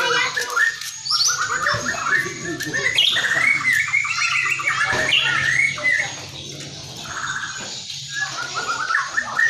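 Barito (Kalimantan) murai batu, a white-rumped shama, singing fast runs of short repeated chattering and whistled notes. The song is loud for about six seconds, then softer, and picks up again near the end.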